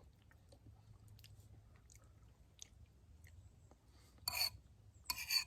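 A person chewing a mouthful of chili and crackers: faint scattered small crunches, then two louder short noisy sounds about a second apart near the end.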